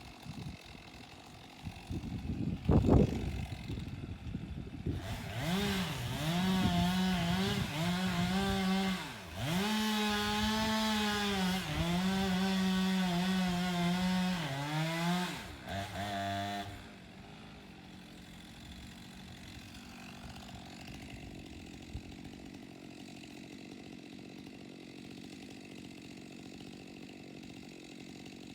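Two-stroke chainsaw revving high and cutting wood for about ten seconds, its pitch dipping again and again as it bogs in the cut, then stopping. A sharp knock comes about three seconds in, and a quieter steady low engine rumble follows the saw.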